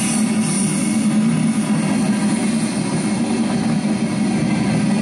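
Coal train's cars rolling past: a steady rumble of steel wheels on the rails.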